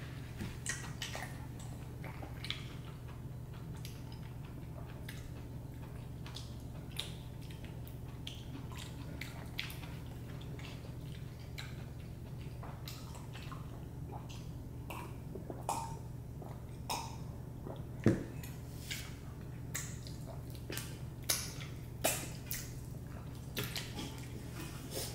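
Eating sounds: scattered small wet clicks and mouth smacks, one sharper click about two-thirds of the way through, over a steady low hum.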